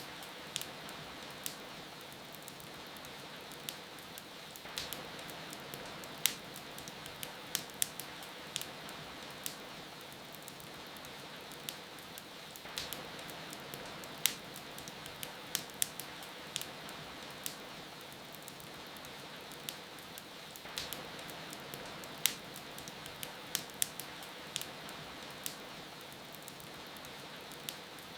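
Wood fire crackling with irregular sharp pops over a steady hiss of falling rain.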